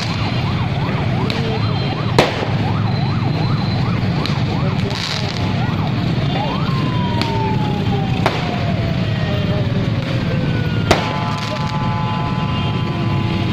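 New Year fireworks over a steady low din: quick repeating whistles rise and fall about three times a second, then one long whistle falls slowly in pitch, with three sharp firework bangs spaced through it.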